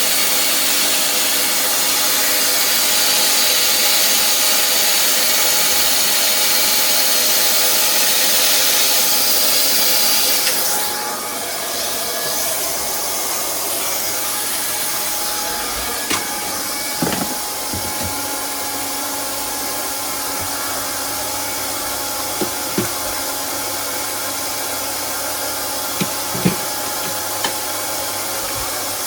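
Hot-air plastic welding gun running: a steady rush of air over the hum of its fan. About a third of the way through the rush drops sharply and the hum carries on. A few light knocks follow later.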